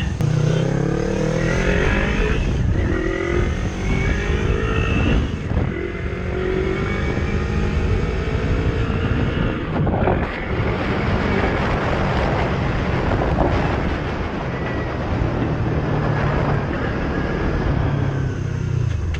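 Yamaha YZF-R3 parallel-twin engine with an Akrapovic full-system exhaust (baffle fitted) under way, its pitch rising again and again as it accelerates through the gears, mixed with wind noise on the microphone.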